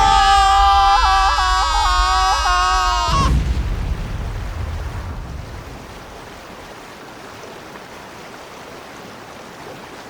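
A loud, long held high-pitched tone with small wavering bends cuts off abruptly about three seconds in. It leaves the rush of churning water, which fades over the next few seconds to a steady hiss.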